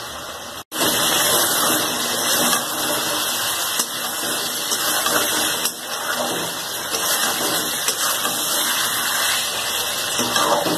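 Chicken pieces with onion and ginger-garlic paste sizzling steadily in oil in an iron kadhai as they are stirred with a metal spatula, frying uncovered over a medium flame. The sound drops out for a moment under a second in.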